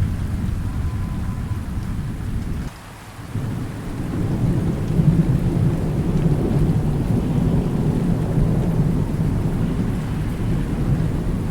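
Rolling thunder over steady rain. The low rumble drops away briefly about three seconds in, then builds again and carries on.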